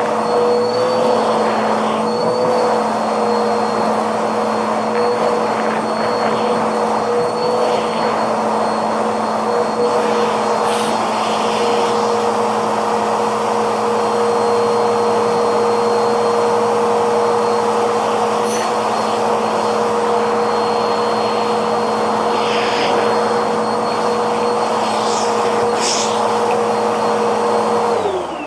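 Vacuum cleaner motor running steadily with a high whine, then switched off at the end, its pitch falling as it spins down.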